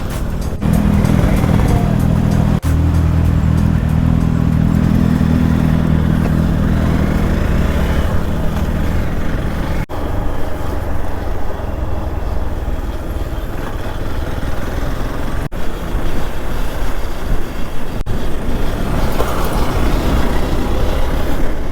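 Hero Xpulse single-cylinder motorcycle engine running at a steady speed while riding, with wind and road rush. The engine note is strong for the first several seconds, then sinks under the rushing wind noise.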